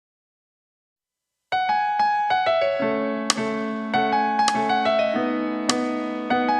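Silence, then about a second and a half in, background piano music begins: a gentle melody of struck notes over held chords.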